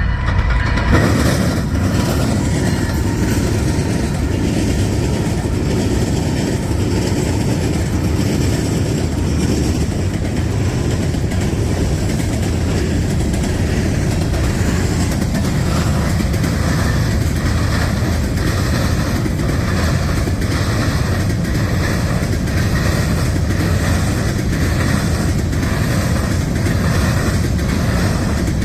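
A train rolling past on the rails, a loud steady rumble. From about halfway through come regular clicks of wheels crossing rail joints.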